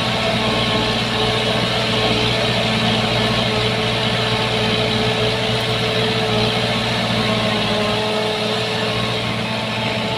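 Shantui bulldozer's diesel engine running at a steady speed, with an even, unchanging drone.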